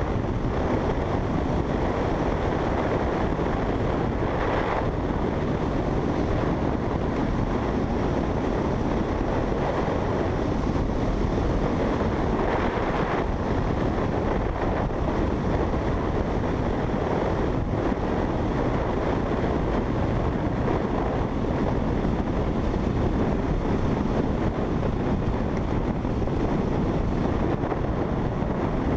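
Motorcycle riding at speed: steady wind rush over the microphone with the bike's running engine mixed underneath, no change in pace or gear.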